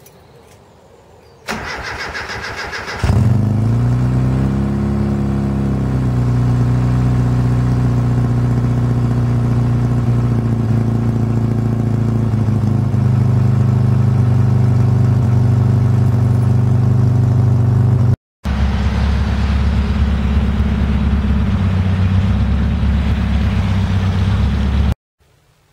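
A car engine is cranked by its starter motor for about a second and a half, catches, rises and falls in revs once, and then settles into a steady idle. After a brief break about two-thirds of the way through, it is heard idling again.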